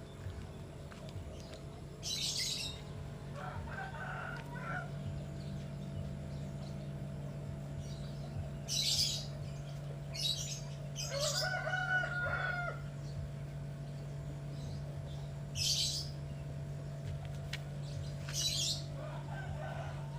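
A sunbird gives about six short, high chirps at irregular intervals. A chicken calls in the background, with a crow-like call around the middle. A steady low hum runs underneath.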